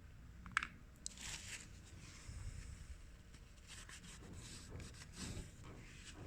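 Small parts of a CD player's loading mechanism being handled and fitted by hand: a sharp click about half a second in, then light scraping and rubbing of plastic and metal pieces.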